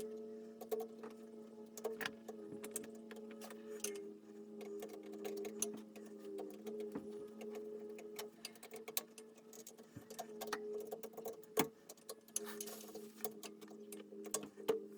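Irregular clicks, ticks and light taps of hand tools and parts being handled, over a steady hum; a short hiss comes in near the end.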